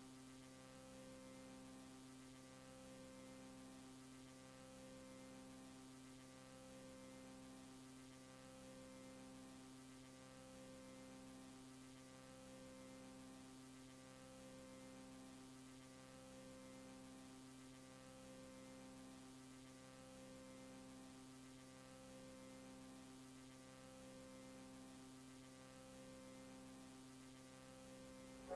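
Faint, steady electrical hum made of several steady tones, with part of it swelling and fading about every two seconds.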